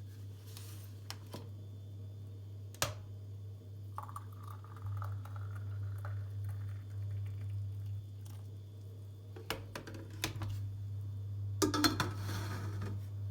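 Light kitchen handling sounds: scattered clicks and knocks of dishes or utensils being moved, with a quick cluster of clatter near the end. A steady low hum runs underneath.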